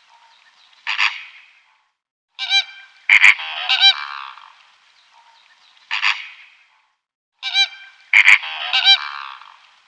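Flamingos honking: short nasal goose-like calls in clusters every second or two.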